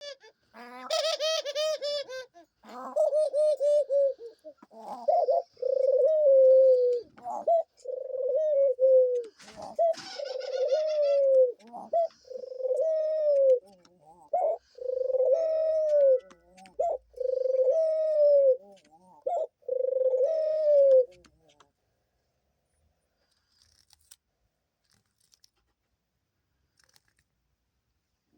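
Doves cooing: a run of about a dozen low coos, each a second or so long, which stops about three-quarters of the way through.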